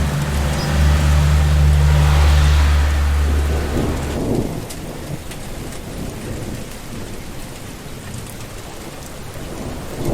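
Steady rain with a long, low roll of thunder that swells in the first few seconds and dies away about four seconds in, leaving the rain alone.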